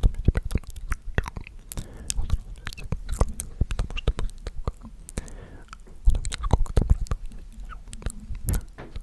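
Close-miked ASMR mouth sounds: rapid wet clicks and smacks of lips and tongue, irregular and dense, with a short stretch of faint whispering about five seconds in.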